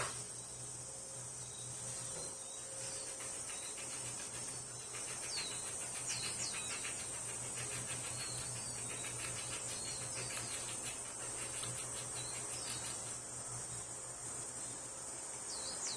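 Japanese squirrel gnawing and crunching its food: rapid fine clicking that thickens after the first couple of seconds and thins out near the end, over a steady low hum.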